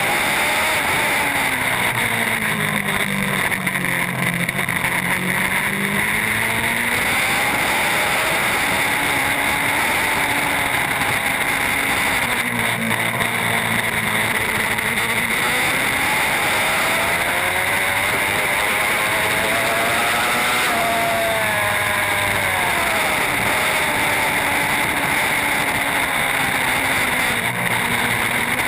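Racing superbike engine running hard, its pitch dropping and climbing again in long sweeps about every nine seconds as it slows and accelerates, over a steady rushing hiss.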